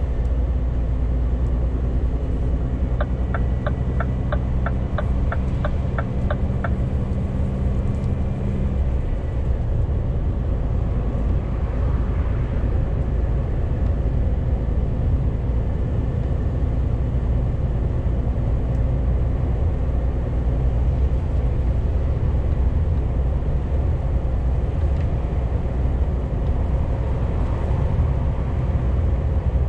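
Scania G410 CNG truck's 12.7-litre methane-fuelled engine running on the move, with road noise. Its steady low hum changes pitch about nine seconds in. A short run of even ticks, about three a second, comes a few seconds in.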